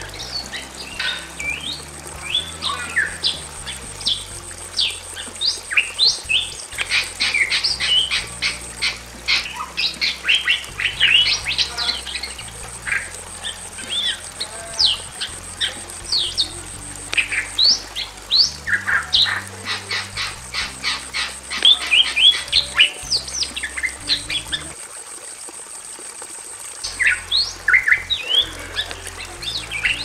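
Bali myna (Bali starling) calling: a fast run of short, sharp whistles and squawks that sweep quickly in pitch, with a pause of about two seconds near the end.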